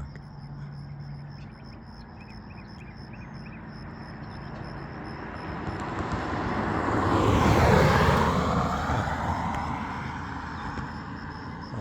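A road vehicle passing by, growing louder to its closest point about eight seconds in and then fading away, its pitch dropping as it goes past.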